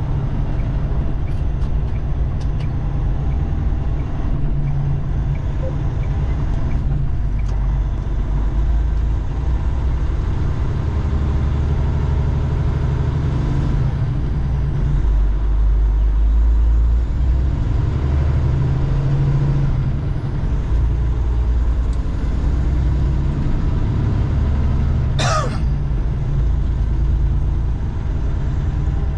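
Semi truck's diesel engine heard inside the cab while driving, a low drone that swells and eases with the throttle. A brief sharp sound cuts in near the end.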